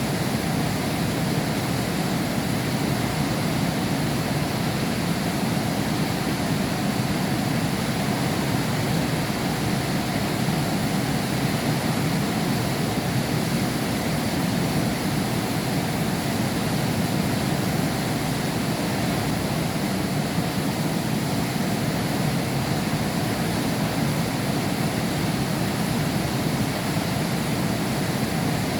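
Heavy rain falling steadily, a continuous dense rushing hiss with no separate drops or breaks.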